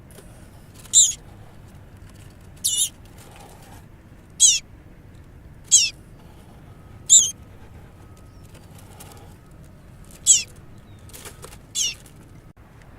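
Baby bird cheeping during a feeding session: seven short, shrill calls spaced about a second and a half apart, typical begging calls of a hungry nestling.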